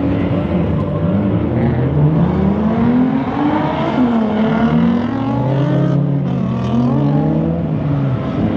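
Drift car engines revving hard on track, their pitch climbing and falling again and again as the cars are driven through the corners.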